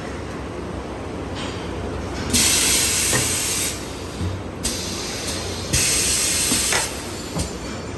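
Paper coffee filter making machine running with a steady hum, letting out two hissing bursts of about a second each, a few seconds apart, with sharp clicks near them.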